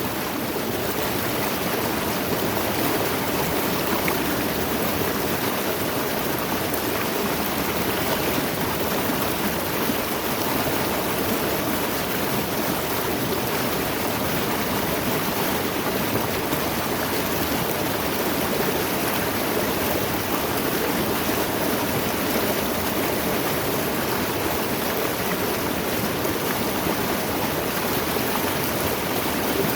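Mountain stream flowing: a steady, unbroken rush of running water.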